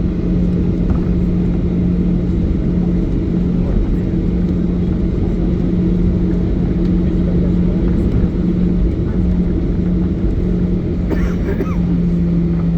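Boeing 737-800 cabin noise: the CFM56 jet engines and airframe giving a loud, steady low rumble with a constant droning hum.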